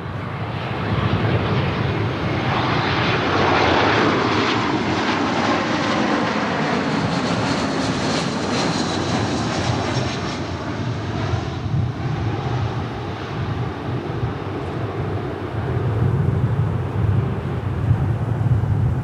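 Airbus A321 jet airliner on landing approach, passing close by: engine roar and whine loudest about three to four seconds in, with the pitch sliding down as it goes past, then easing to a low rumble.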